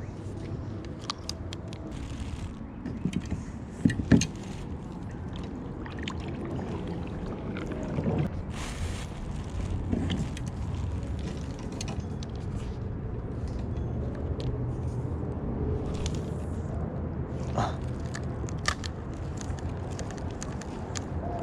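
Steady low rumble with scattered light clicks and a sharp knock about four seconds in, with a brief swell of noise near nine seconds.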